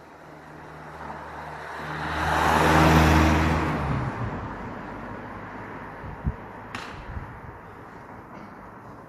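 A road vehicle passes by: its engine hum and tyre noise swell to a peak about three seconds in, then fade away. A sharp knock and a click follow a few seconds later.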